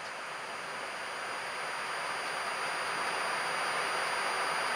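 Steady flight-deck noise of an Airbus A330 in climb near cruise altitude: a smooth hiss of airflow and ventilation that grows slightly louder, with faint high steady tones above it.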